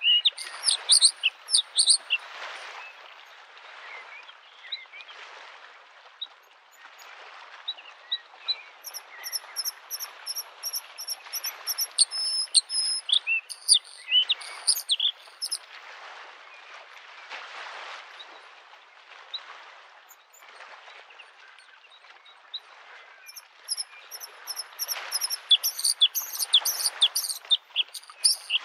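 Bluethroat singing in bursts of rapid, high chirps and trills, three phrases: at the start, in the middle and near the end. Underneath, small lake waves lap on the shore in soft swells every second or two.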